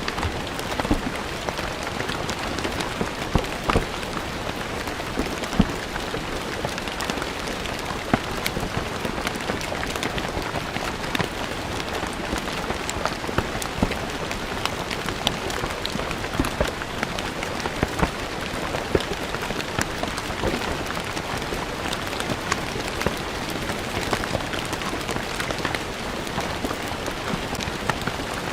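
Steady rain falling on stone paving: a dense, even hiss with many sharp individual drop impacts scattered through it.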